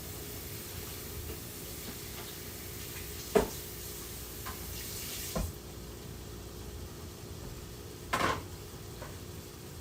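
Food sizzling in a frying pan during a ramen stir fry, with a few sharp knocks, the loudest about a third of the way in. The sizzle thins out a little past halfway.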